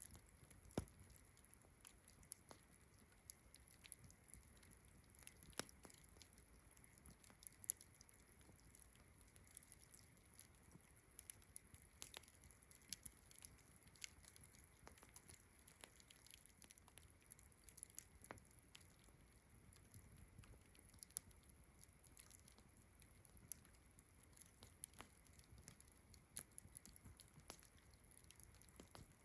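Campfire crackling, with irregular sharp pops scattered through, over a faint, steady high-pitched chorus of crickets.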